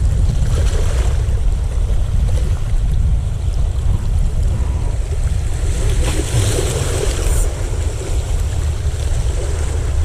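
Steady wind buffeting the microphone over the wash of the sea.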